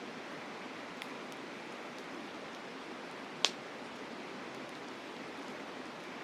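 Campfire crackling, with faint ticks and one sharp pop about three and a half seconds in, over the steady rush of a mountain river.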